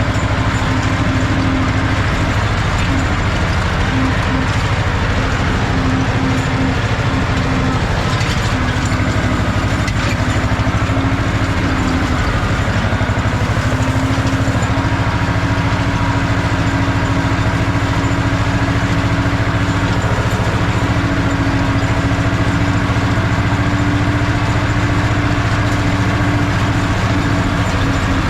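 Ursus C-330's two-cylinder diesel engine running steadily at working speed while the tractor pulls a hay rake.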